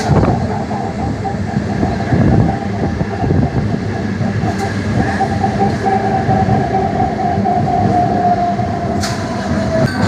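MEMU electric train running along the track: a steady rumble with a held whine that drops slightly near the end, and a few sharp clicks.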